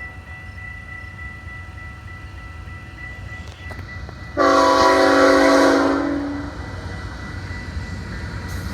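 Amtrak GE Dash 8 locomotive's air horn sounding one blast of about a second and a half, halfway through, over the low rumble of the approaching train.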